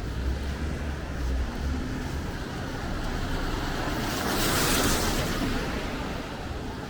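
A car passing on wet asphalt: the tyre hiss swells to a peak about four to five seconds in, then fades, over a low engine rumble near the start.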